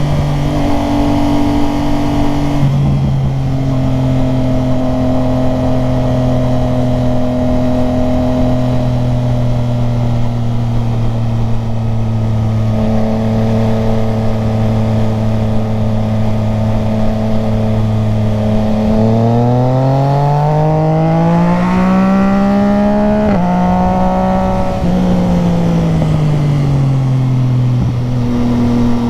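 Motorcycle engine running at steady revs while riding. About two-thirds through, its note climbs as it accelerates, breaks briefly at a gear change, then falls as the bike slows.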